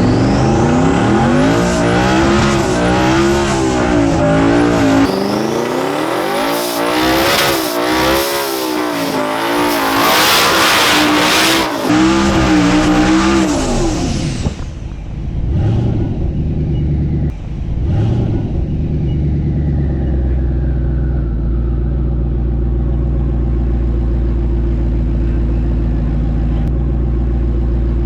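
Drag car engine under hard acceleration, its pitch climbing and dropping again and again with the gear changes. About halfway through it lets off, blips briefly a couple of times, and then settles into a steady low idle.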